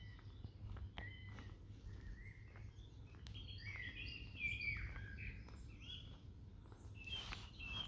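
Songbirds singing and chirping: many short notes, some gliding in pitch, from more than one bird, over a low steady rumble.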